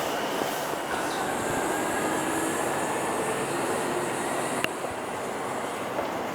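Electric commuter train moving at a station platform: a steady running rumble with a faint high whine, and one sharp click about four and a half seconds in.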